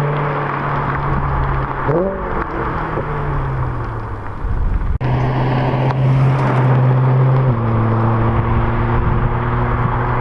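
BMW E92 M3's V8 engine running at steady revs, with a quick rev blip about two seconds in. The sound breaks off abruptly about halfway, picks up again steady, and steps down in pitch near the end.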